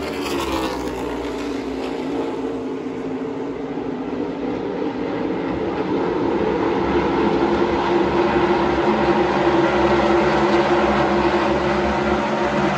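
Race trucks going by at speed: a falling engine pitch as one passes just after the start, then the engine drone of the pack building and getting louder.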